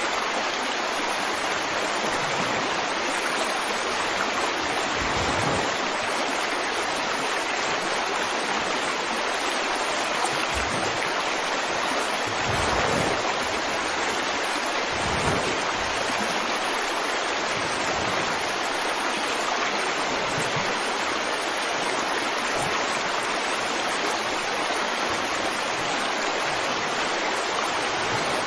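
Running water of a stream, a steady rush with a few brief deeper pulses here and there.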